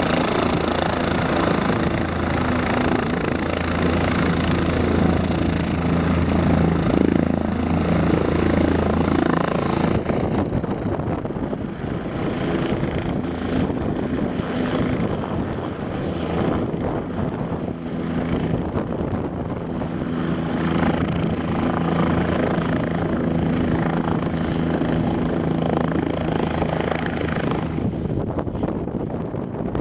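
Bell 407 helicopter running, its turbine and four-blade rotor giving a loud, steady sound. About ten seconds in, the deep low drone drops away and the upper hiss thins, while the mid-pitched tones carry on.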